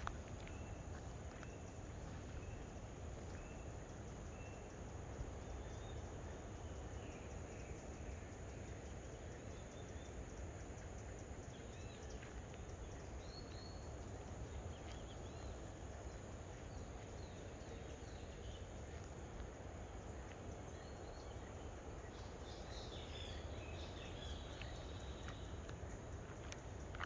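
Outdoor nature sounds: a steady high insect drone throughout, with scattered short bird chirps, most of them from about halfway through, over a low steady background rumble.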